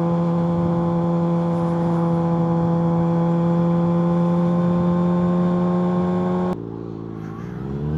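Kawasaki ZX-6R's inline-four engine running at a steady high note under way. About six and a half seconds in, the throttle shuts suddenly and the sound drops; near the end the revs climb again.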